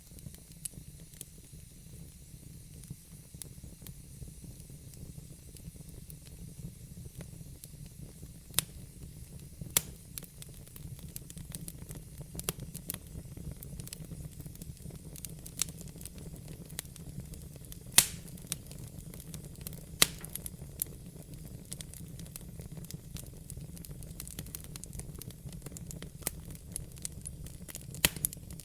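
Wood fire burning in a fireplace: a steady low rumble and hiss with irregular sharp crackles and pops, a few of them loud and standing out, the strongest about eighteen and twenty seconds in.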